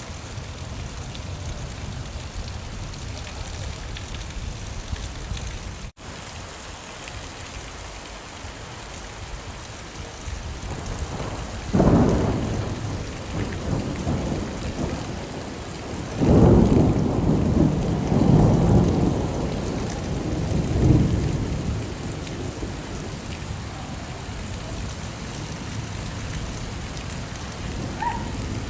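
Steady rain with thunder: a sharp clap about twelve seconds in, then a longer rumble with several peaks a few seconds later. The rain sound cuts out for an instant early on.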